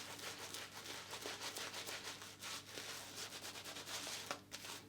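Badger-hair shaving brush working lather over stubble: a faint, quick, scratchy rubbing of many short strokes.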